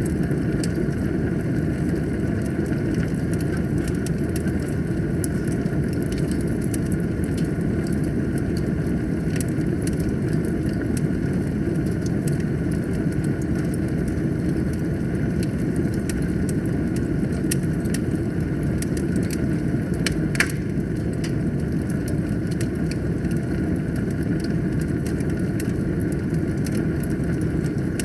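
Wood fire burning in a fireplace: a steady low rumble of flames with frequent small crackles and one louder pop about twenty seconds in.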